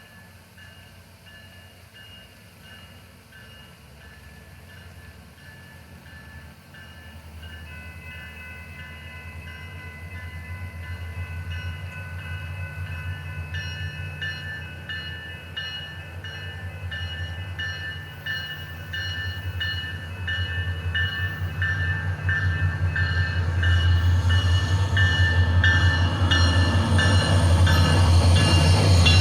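SunRail commuter train approaching, its low rumble growing steadily louder. Steady ringing tones are heard throughout, and from about halfway a bell strikes repeatedly at an even pace.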